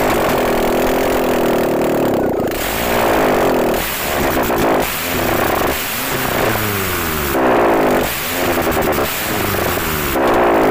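Inline-four engine running with no exhaust manifold, exhausting straight out of the bare ports in the cylinder head. It is revved up and down several times, with steadier stretches between the revs.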